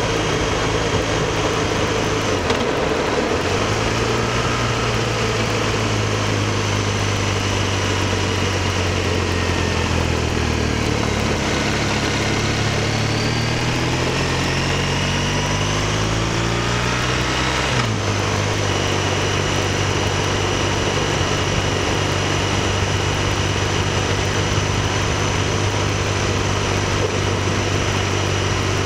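BMW R1200RT's boxer-twin engine picked up by a bike-mounted camera over steady wind and road noise. The engine note drops as the throttle closes a couple of seconds in, climbs steadily for several seconds as the bike accelerates, falls suddenly about eighteen seconds in as it changes up a gear, then holds steady.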